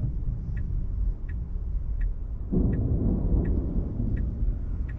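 Inside a Tesla Model 3 on wet roads: low tyre and road rumble, with the turn signal ticking evenly about three times every two seconds. About halfway through, a louder rushing rumble swells up suddenly and fades over the next couple of seconds.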